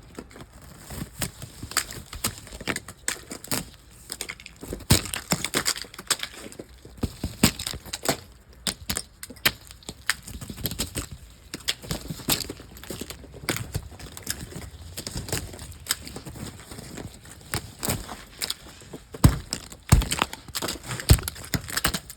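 Dense, irregular crunching and crackling clicks, with a few louder snaps near the end.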